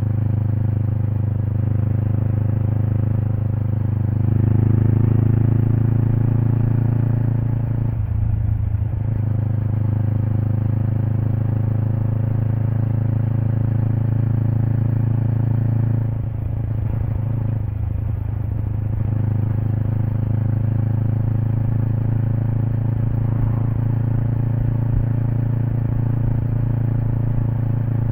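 Kawasaki Eliminator SE's 398 cc parallel-twin engine running through a BEAMS aftermarket header and muffler, heard close to the tailpipe while riding at a steady pace. The note drops away briefly about eight seconds in and again around sixteen seconds before picking back up.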